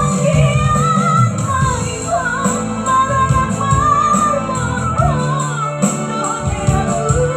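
A voice singing a Toba Batak song, the melody gliding and ornamented, over a band accompaniment with a prominent bass line.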